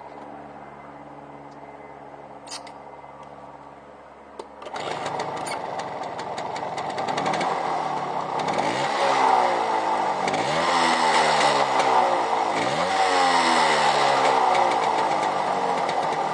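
1968 Suzuki KT120's 120 cc single-cylinder two-stroke engine starting up about four and a half seconds in, after a low steady hum and a couple of clicks. It then runs and is revved with three throttle blips.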